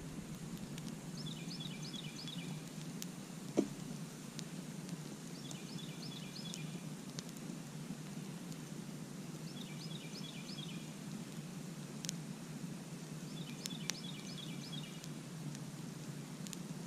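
Campfire burning with a steady low rush and a few sharp crackling pops. Over it, a bird repeats a short phrase of quick chirps every few seconds.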